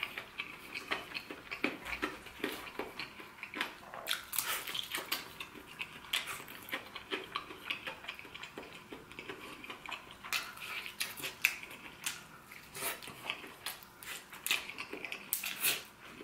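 Close-up chewing of crispy fried chicken: irregular wet clicks and crackles of the crunchy breading and meat being eaten, with the pieces handled in the fingers.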